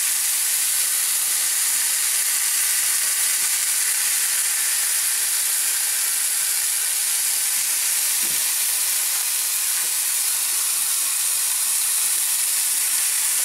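Chicken breast and aubergine slices sizzling in a ceramic grill pan, cooked with almost no oil: a steady, even high hiss.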